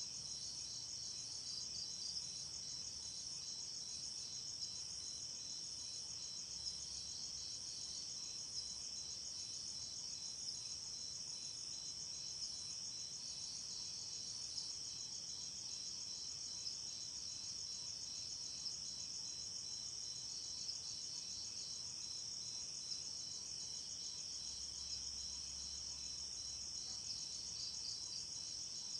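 Night chorus of crickets and other insects chirping steadily, several high trills overlapping, with a faint tick about every two seconds.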